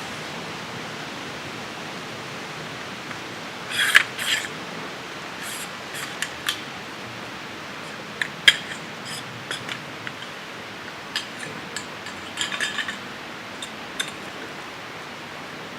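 Scattered clicks, taps and short rustles of small items being handled, over a steady background hiss; the busiest handling comes about four seconds in and again around twelve to thirteen seconds in.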